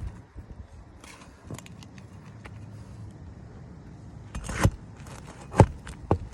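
Hand work on an old 3-tab asphalt shingle roof: light rustling and scraping, then a scrape that builds into a sharp knock about four and a half seconds in, and two more sharp knocks close after it.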